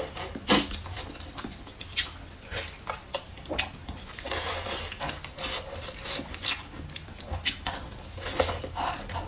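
Chewing and biting on a chicken drumstick, with irregular wet mouth smacks and clicks and some brief sucking noises.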